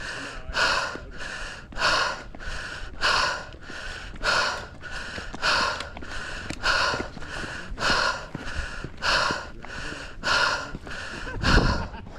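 A runner's hard, rapid breathing from exertion on a steep uphill run: an even rhythm of about two breaths a second. A low thump near the end.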